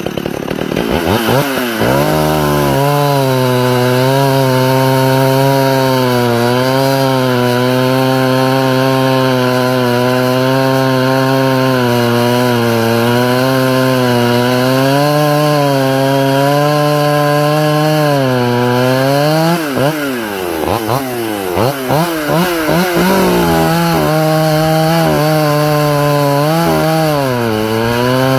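Pioneer P50 chainsaw, an 82 cc two-stroke, revving up and running at high speed with a slightly wavering pitch. About two-thirds of the way through, the revs fall and rise several times in quick blips before it holds high again, with one short dip near the end.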